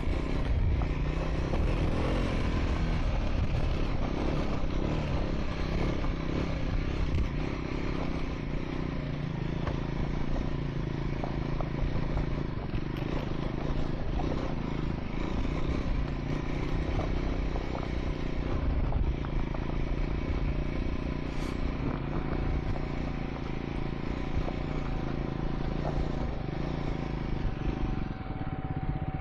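Triumph Scrambler 400 X motorcycle riding on a gravel track: the engine runs steadily under way, with stones and loose parts clattering and scraping beneath it.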